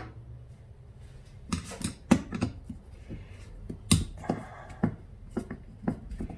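Scattered sharp clicks and light knocks of hand tools on a small-engine carburetor as a valve is being removed from it, about nine in irregular succession.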